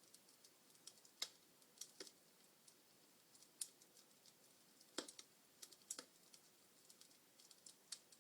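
Logs burning in a fireplace, crackling: irregular sharp pops and snaps, a few of them louder, over a very quiet background.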